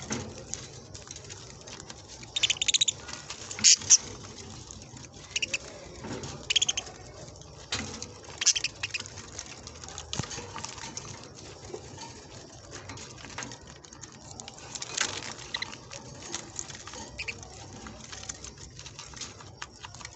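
A flock of budgerigars chirping and chattering, with short, sharp high calls coming irregularly over a soft background of twittering and scrabbling.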